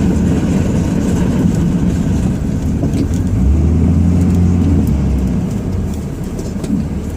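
Ram 2500's Cummins straight-six diesel engine running under load while plowing snow, heard from inside the cab as a steady low drone. About three and a half seconds in, the engine note rises and strengthens for a couple of seconds, then eases off.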